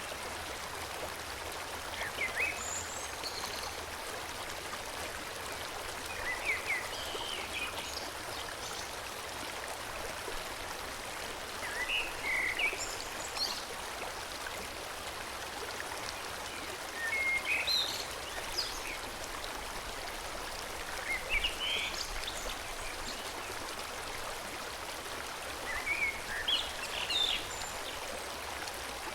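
Forest stream flowing steadily, with a bird chirping briefly every four to five seconds.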